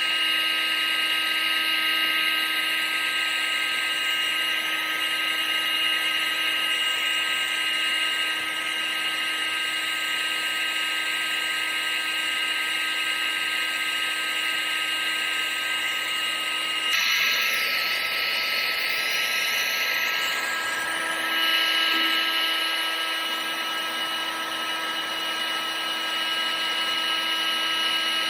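Vacuum cleaner motor running steadily: a rush of air with a high electric whine. About two-thirds of the way through, the whine shifts and wavers for a few seconds, then settles back to a steady run.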